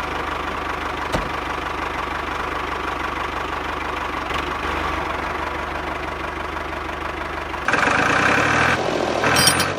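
A small engine-like motor runs steadily with a fast, even pulse. About three-quarters of the way through, the sound becomes louder and changes character.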